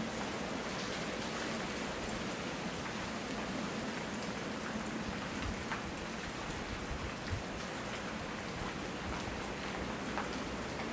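Steady rain falling, a constant hiss with scattered individual drops ticking close by, and one louder tap about seven seconds in.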